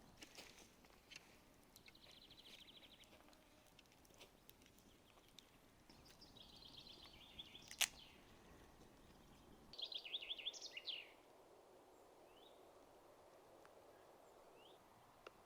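Forest songbirds singing short, rapid trilled phrases over a faint background, the loudest trill about ten seconds in. A campfire crackles now and then, with one sharp pop about eight seconds in.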